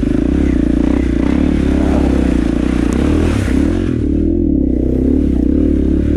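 KTM dirt bike engine running under way, its pitch rising and falling with the throttle, easing off briefly about four seconds in.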